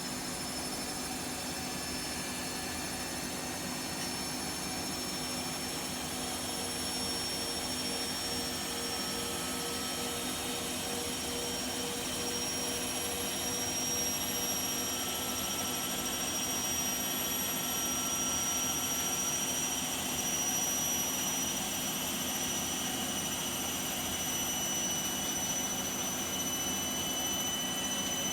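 Bosch Vario Perfect WAK28260GB washing machine on a 1400 rpm spin: a steady rushing hum with a high whine that slowly rises in pitch as the drum speeds up. The machine is on test for suspected worn drum bearings.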